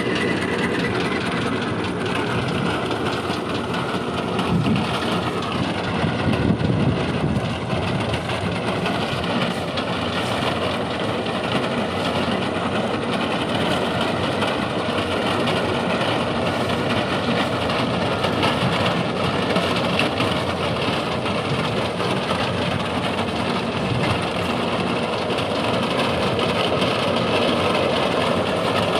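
Solis tractor's diesel engine running steadily with a rear-mounted reaper working, a continuous machine din with a faint, wavering high whine over it.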